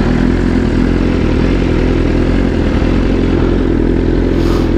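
An engine idling steadily at an even pitch, with a brief hiss near the end.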